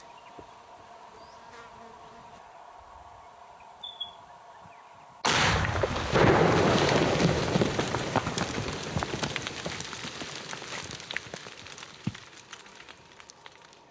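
Rock blast fired with det cord through 34 drill holes in two boulders: after a few seconds of quiet, a sudden loud bang, a second surge about a second later, then a long rumbling die-away with scattered ticks and knocks over several seconds.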